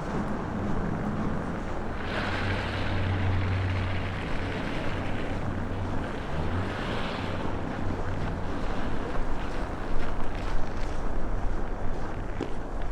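Strong wind buffeting the microphone in a snowstorm, over a low steady hum. A hissing rush swells about two seconds in and again around seven seconds, and the buffeting turns choppier near the end.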